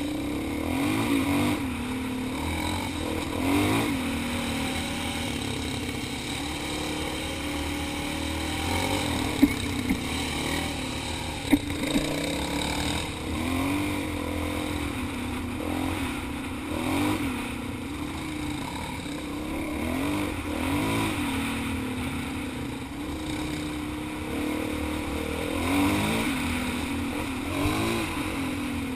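Dual-sport motorcycle engine heard from on the bike while trail riding, revving up and easing off again and again with the throttle. Two sharp knocks stand out near the middle.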